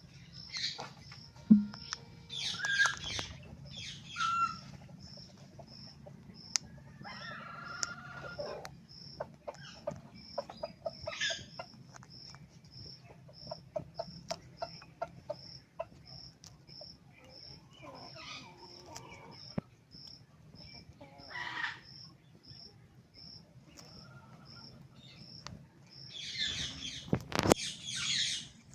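Parrot giving short squawks and chirps every few seconds, with small clicks in between, the loudest calls near the end. Behind it, a steady high-pitched chirp repeats about twice a second.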